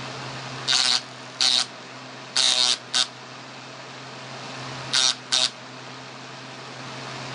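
Electric fan running with a steady hum and hiss, over which come six short, loud, shrill pitched sounds in three pairs, about a second in, two and a half seconds in and five seconds in.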